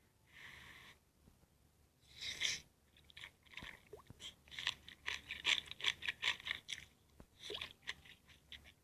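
Close-miked chewing of crunchy food: after a couple of soft bites, a dense run of rapid crackling crunches from about three seconds in.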